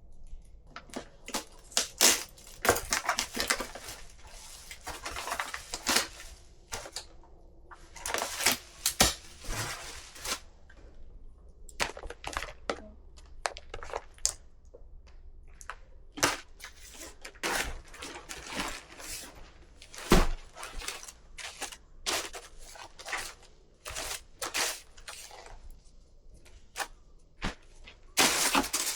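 Irregular small knocks, clicks and rustling, as of objects being handled, with short quiet gaps between bursts.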